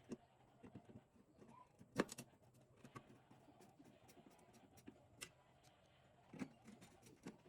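Near silence with a few faint scattered knocks and clicks, the loudest about two seconds in.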